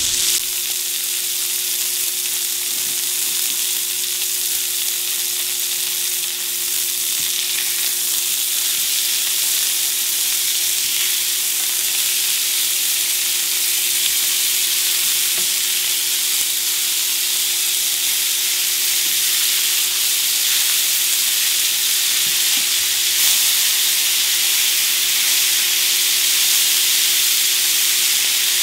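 Ground-beef slider patties sizzling steadily in rendered beef fat in a stainless steel frying pan as they crisp up, with a faint steady hum underneath.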